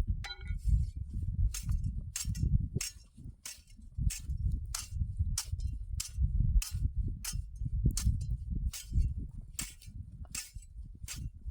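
A steady train of sharp clicks, about one and a half a second, over a constant low rumble, with a brief pitched sound at the very start.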